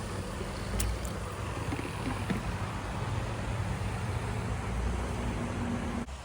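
A steady low mechanical rumble and hum, with a couple of light clicks, cutting off suddenly near the end.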